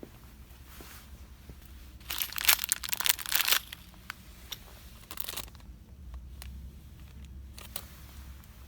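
Plastic packaging crinkling as it is handled: a dense burst of about a second and a half starting about two seconds in, then a shorter crinkle about five seconds in, with a few light ticks between.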